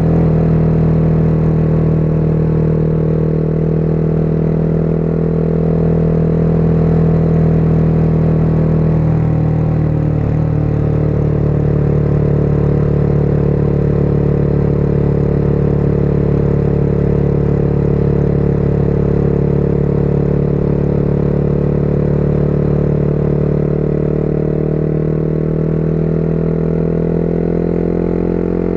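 Motorcycle engine running steadily, with a brief change in its note about ten seconds in and a slight shift in pitch near the end.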